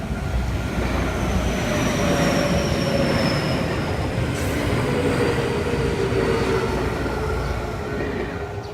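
Keio Inokashira Line electric train passing over a level crossing. The rumble of its wheels and motors swells to a loud run through the middle and eases off near the end, with a whine that slowly falls in pitch. The crossing's warning bell keeps ringing beneath it.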